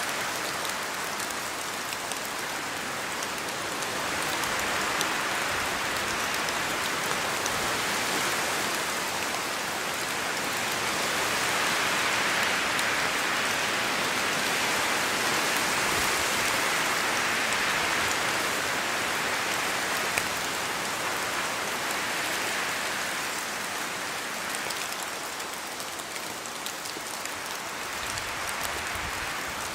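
Steady rain falling through forest trees, drops pattering on leaves, swelling in strength about a third of the way in and easing off near the end.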